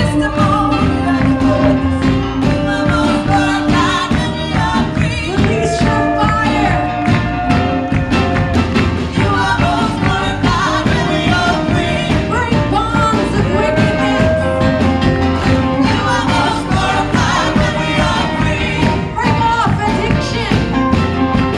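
Live Christian praise-and-worship music: a band playing a steady beat with voices singing along.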